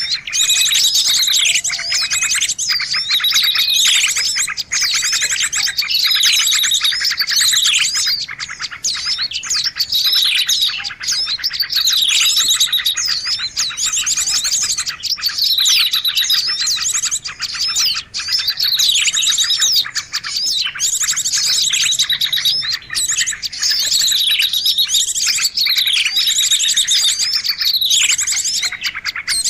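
A loud, dense chorus of many birds chirping and twittering together, with quick falling notes repeating about every two seconds as in a looped recording. It is a noisy bird-lure call (suara pikat) played to draw in birds of all kinds.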